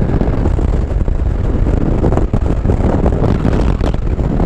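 Wind buffeting a helmet-mounted microphone on a moving motorcycle with the helmet open in jet mode: a loud, steady low rumbling rush, with the Ducati Multistrada 1200S's engine running underneath it.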